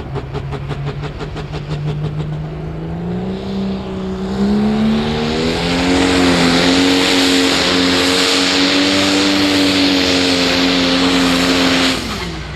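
Pro Stock pulling tractor's diesel engine working hard under load down the track. Its note climbs steadily over the first few seconds, then holds high and loud. About half a second before the end it drops off sharply as the pull is aborted.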